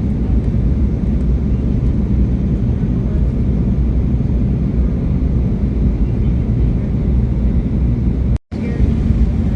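Steady rumble of jet engine and airflow noise inside the cabin of an Embraer E175 airliner with its two turbofans, deep and even throughout. The sound cuts out completely for a moment about eight and a half seconds in, then returns unchanged.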